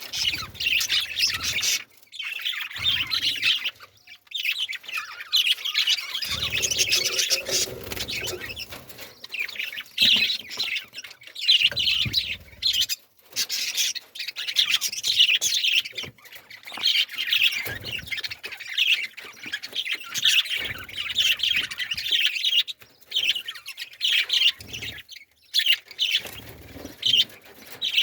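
Many small birds chirping and chattering rapidly and continuously in a dense chorus, with a few brief breaks.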